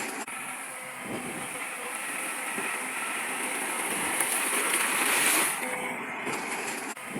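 Heavy earthmoving machinery working: steady engine and mechanical noise with a strong high hiss, broken by two short sudden dips, one just after the start and one near the end.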